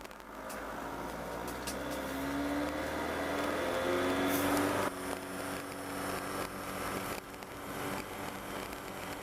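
Motorhome engine running while driving: its pitch climbs as it accelerates during the first half, then the sound changes abruptly about five seconds in and runs more steadily.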